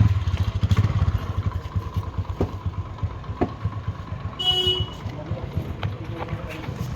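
Scooter engine idling with a fast, even low putter. A short horn toot comes about four and a half seconds in.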